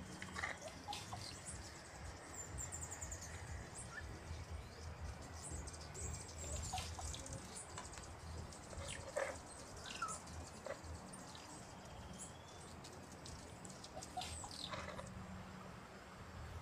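Birds chirping and calling at intervals in the background, over a low steady background noise.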